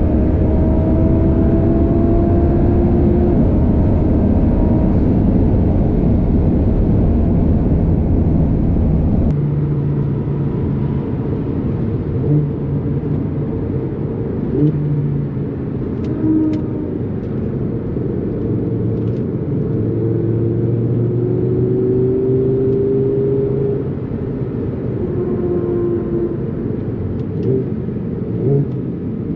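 Twin-turbocharged Audi R8 5.2-litre V10 running hard at speed, its engine note rising and easing slowly over steady road and wind noise. About nine seconds in, the deepest part of the rumble falls away suddenly.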